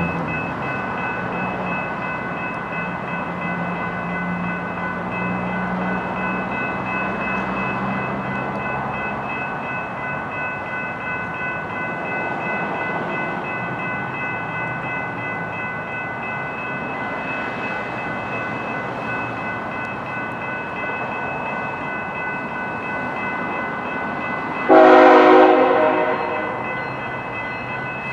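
BNSF diesel locomotive leading a coal train approaching, with a steady engine rumble and a faint high whine, then one short horn blast near the end, the loudest sound.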